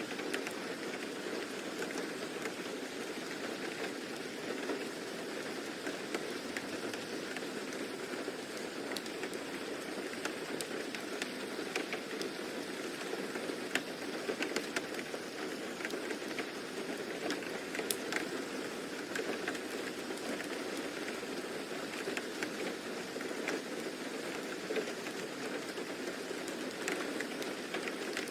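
Steady rain ambience, a continuous even hiss of falling rain with scattered sharp ticks throughout.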